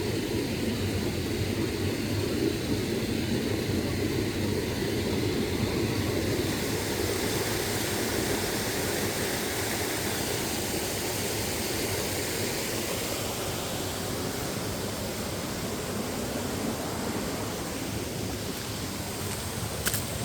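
Waterfall: falling water rushing and splashing steadily, a dense even rush with no pauses. A short click just before the end.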